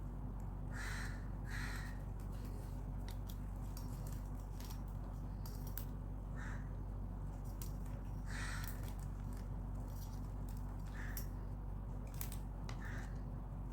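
Several short, harsh crow caws a few seconds apart, over a steady low hum, with small clicks of plastic craft wire being handled and knotted.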